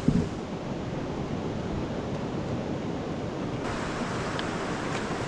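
Steady rushing of river water, with a brief knock right at the start.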